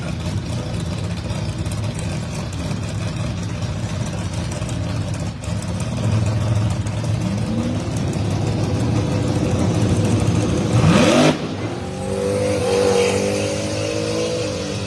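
Drag race car engines running loud and rough on the starting line, then one engine revs in a steep rising sweep about eleven seconds in that cuts off suddenly, as a car launches; steadier engine notes carry on afterwards.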